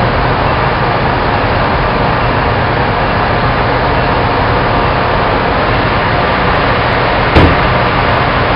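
Steady, loud running noise of an MBTA commuter train standing at the platform, its diesel locomotive idling, with a single sharp thump about seven seconds in.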